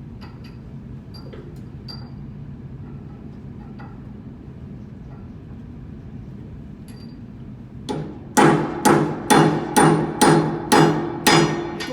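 Hammer striking metal on an HVAC blower assembly during a bearing replacement: about eight hard, evenly spaced blows, roughly two a second, each leaving a metallic ring. They start about eight seconds in, after a few faint clicks and taps over a low hum.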